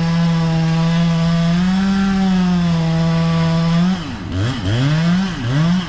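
Two-stroke chainsaw running at high revs, steady as in a cut, then from about four seconds in revved in a series of quick throttle blips, each rising in pitch.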